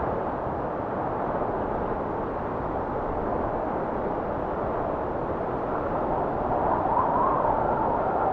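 Strong blizzard wind blowing steadily, with a gust swelling slightly near the end and a faint whistling pitch that rises and falls.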